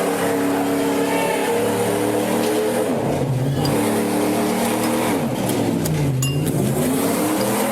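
A motor vehicle's engine revving: a steady pitch that sinks and then climbs back up between about five and seven seconds in.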